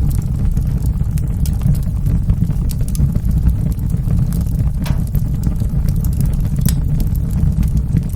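Wood fire burning in a fireplace: a steady low rumble with scattered sharp crackles and pops, a few louder pops near the middle.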